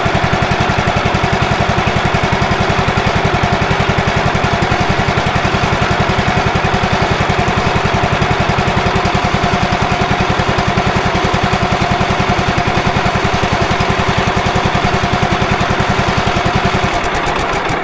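Wood-Mizer LT15 sawmill's gasoline engine running steadily at idle with an even, rapid firing beat, just brought back to life after sitting for years and sounding healthy. Its beat changes about a second before the end.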